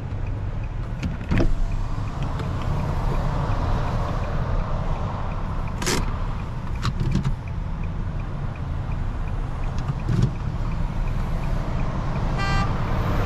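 Nissan 370Z with a straight-piped exhaust, its V6 engine and the road heard as a steady low drone from inside the cabin, with a few short clicks and knocks.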